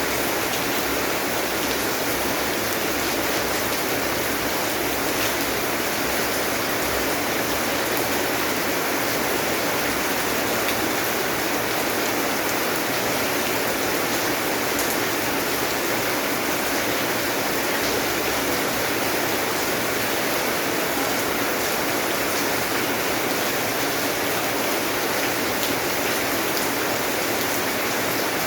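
Steady rain falling, an even unbroken hiss with faint scattered drop ticks.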